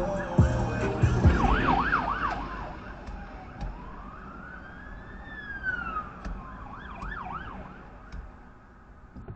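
Police siren cycling through its modes: a rapid warble about a second in, a slow rising and falling wail in the middle, then a rapid warble again. A track of music with a beat fades out in the first second or so.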